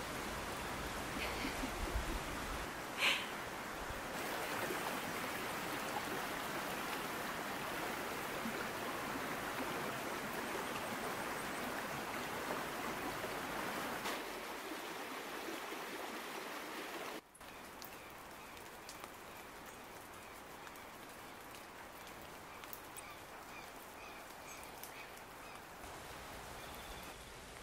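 Steady rain falling outdoors, an even hiss of drops. About two-thirds of the way through it cuts to a quieter stretch of the same rain, with faint repeated high chirps over it.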